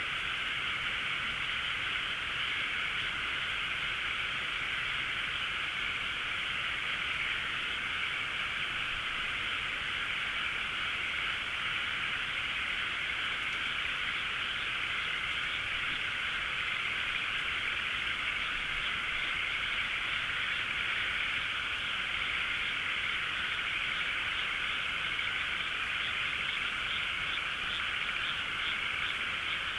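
A dense chorus of many frogs calling at once, steady and unbroken.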